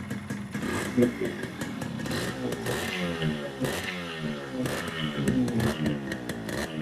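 Yamaha RX100's single-cylinder two-stroke engine running and being revved, its pitch rising and falling again and again.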